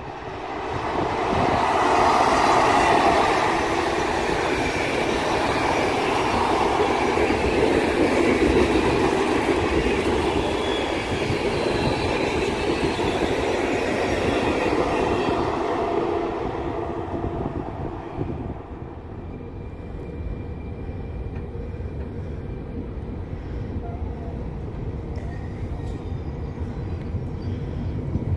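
A passenger train of Intercity coaches running past on the rails, its wheels rumbling and clattering over the track. The sound is loud for the first sixteen seconds or so, then fades away. Near the end a low rumble slowly builds as an electric locomotive approaches with its train.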